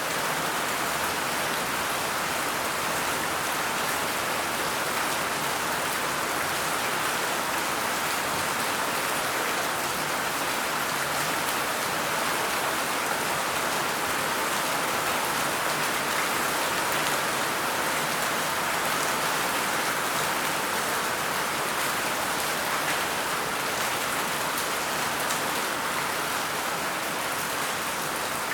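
Steady rain falling, a dense even patter of drops on a surface, with no change in strength.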